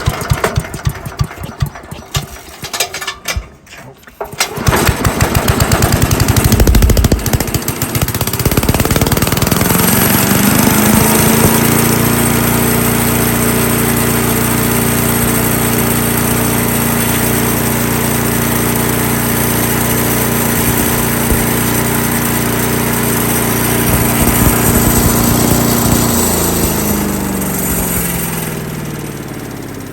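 Small single-cylinder engine of an 8 hp Craftsman chipper/shredder running, choppy and uneven for the first few seconds, then holding a steady high speed. Near the end its pitch falls as it slows toward idle.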